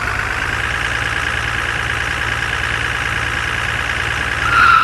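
A motor vehicle engine running steadily with a fast, even beat, brightening briefly near the end.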